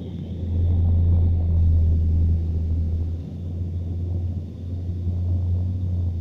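Scania truck's diesel engine running with a deep, steady rumble, louder for the first few seconds and then easing off slightly.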